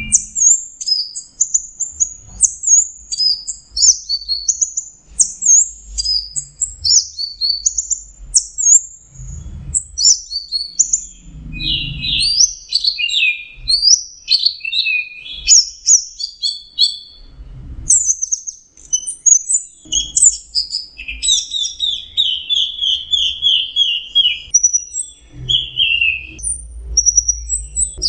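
Orange-headed thrush (anis merah) singing a long, almost unbroken run of varied whistled and chattering phrases, with a stretch of rapid repeated notes in the second half. The song is delivered in the absorbed, non-stop 'teler' state that bird keepers prize.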